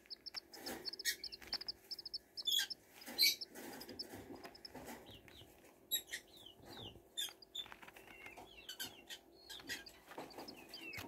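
Serama chicks peeping in a brooder: quick runs of short, high peeps and short downward-sliding cheeps, with scattered sharp taps and scratches. The keeper takes the peeping for hunger.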